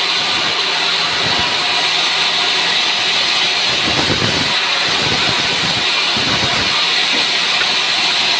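Sawmill saw running through dry pine wood, a loud steady hissing noise from the cut over the machine's running, with a few low knocks around the middle.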